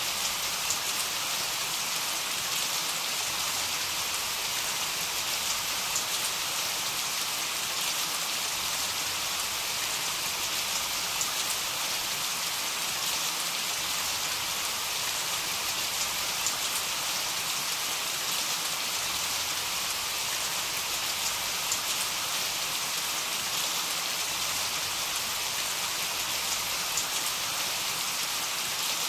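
Heavy rain falling steadily, a dense even hiss of drops with scattered individual drop ticks; no thunder is heard.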